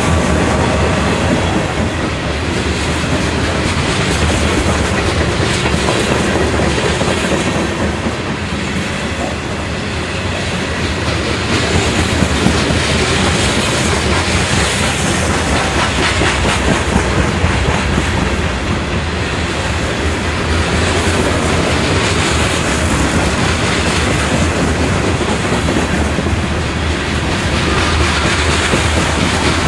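Covered hopper cars of a CSX freight train rolling past close by: the steel wheels running on the rails make a loud, steady noise that swells and eases slightly as the cars go by.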